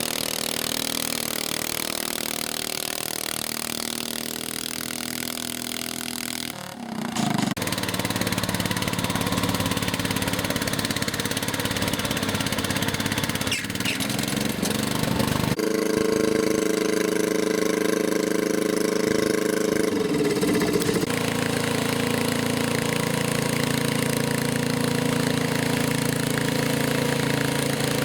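Garden tractor engine running steadily, its note shifting about seven seconds in and again twice later.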